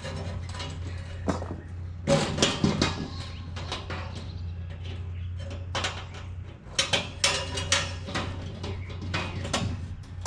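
Clinks, clicks and rattles of bolts, nuts and galvanized steel panels being handled and fitted together on a metal raised garden bed, in irregular clusters over a steady low hum.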